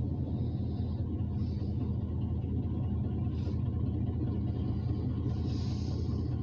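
Steady low rumble of a freight train's covered hopper cars rolling slowly past, heard from inside a car, with a few faint high hisses over it.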